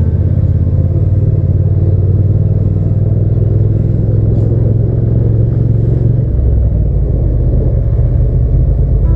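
Hyosung GT650's V-twin engine running under way, a steady low exhaust drone heard while riding. The engine note changes about six seconds in.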